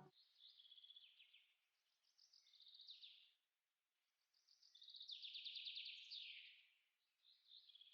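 A songbird singing faintly: four high, trilled phrases a second or two apart, each ending in a falling sweep, the third the longest and loudest.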